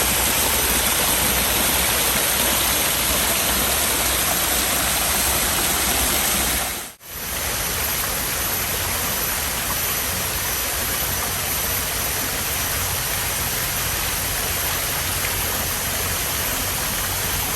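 Small waterfall, water pouring and rushing in a steady, even rush. About seven seconds in it cuts out for a moment and comes back slightly quieter.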